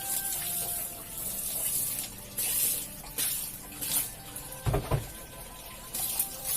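Water spraying onto a pile carpet in several short hissing bursts during hand washing. There are two quick thumps a little before five seconds in.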